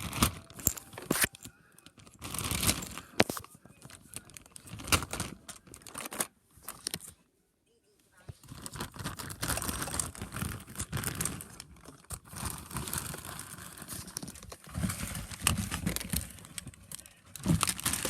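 Crinkling and rustling handling noises with scattered clicks and knocks, stopping briefly about seven seconds in and then going on.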